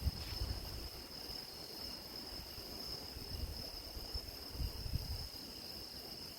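Crickets chirring in a steady, high-pitched continuous chorus, over an uneven low rumble with a bump right at the start.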